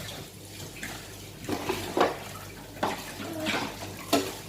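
Tap water running into a sink while plates are washed, with several clinks and knocks of the dishes, the loudest about two seconds in and near the end.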